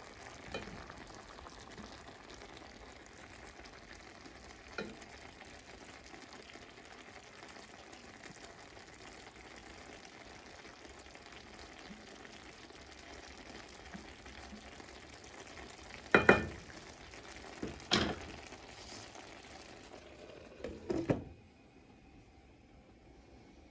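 Food frying in a pan with a steady sizzle, broken by a few sharp knocks of a utensil against the pan, the loudest about two-thirds of the way through. Near the end the sizzle drops away to a much fainter hiss.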